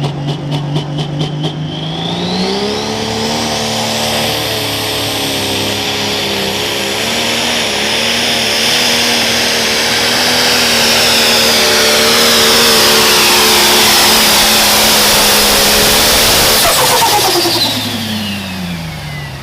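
Turbocharged diesel engine of a pro stock pulling tractor revving up from a pulsing idle, with the turbo whine climbing steeply as it spools. The engine is held at high revs under load through the pull, then both drop off near the end as the throttle comes off, the turbo whine winding down.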